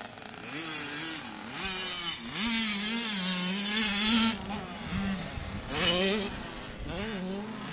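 Motocross dirt bike engine revving up and down as it is ridden, loudest from about two seconds in to past the middle and again briefly near the end.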